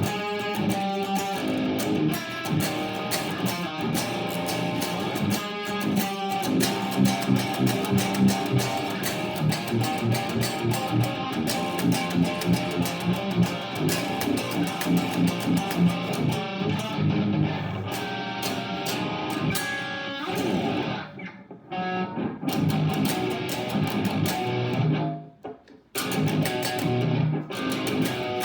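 Seven-string TW Smith BTMN electric guitar played through a Positive Grid Spark 40 amp: distorted metalcore riffs with a driving, rhythmic pulse. The playing breaks off briefly twice near the end.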